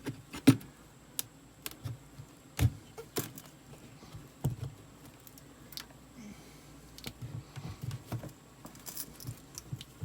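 Scattered sharp metal clicks and knocks of a pry bar working at a nailed-down panel, irregular, the loudest about half a second in.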